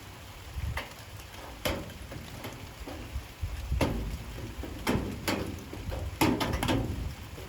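Light rain with large drops falling irregularly and striking a hard surface as separate sharp taps, several in quick succession near the end, over a steady low rumble.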